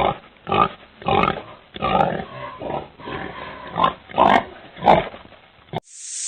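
An animal calling in a quick run of short, loud grunting calls, about nine in six seconds, which cut off suddenly near the end.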